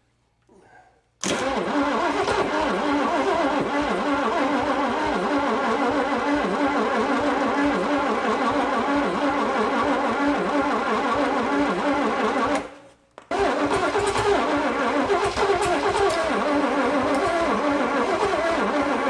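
1956 Chevrolet 265 small-block V8 being cranked over by its starter, trying to fire but not catching. It cranks for about eleven seconds from a second in, stops briefly, then cranks again.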